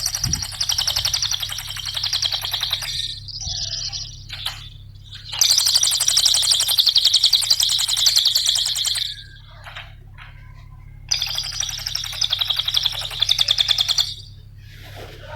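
Cililin songbird singing in three long bouts of very rapid, high chattering trills, with short pauses between them, over a steady low hum.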